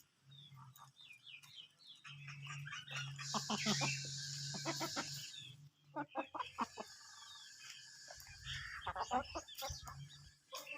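A flock of free-range chickens clucking, with many short clucks scattered and overlapping throughout.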